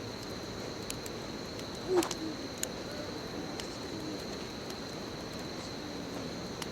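Bonfire crackling: a steady hiss of burning wood with scattered sharp snaps and one louder pop about two seconds in, over a steady high-pitched tone.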